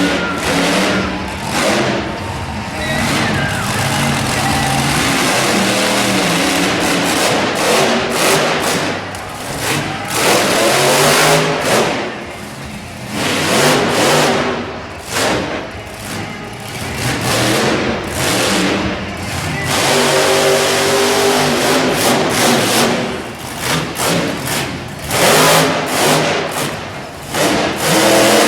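Monster truck engine revving hard and dropping back again and again during a freestyle run, loud, its pitch rising and falling, with several brief lifts off the throttle.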